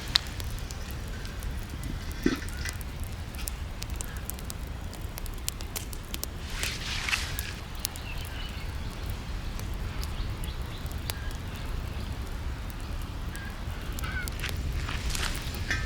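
Campfire crackling with scattered sharp pops, and a few short bird calls in between.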